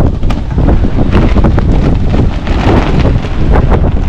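Strong wind buffeting the microphone: a loud, rumbling low roar broken by crackling gusts.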